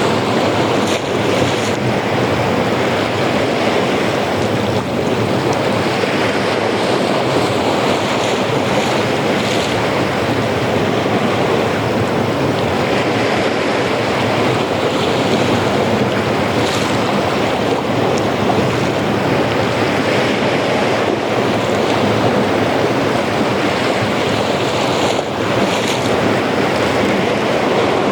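Ocean surf washing continuously onto a beach, with faint swells as waves break every few seconds, and some wind on the microphone.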